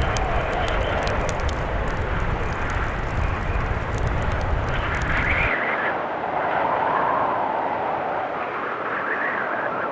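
Blizzard wind howling in slow rising and falling gusts. For the first half a wood fire crackles over a low rumble, then both cut off abruptly, leaving the wind alone.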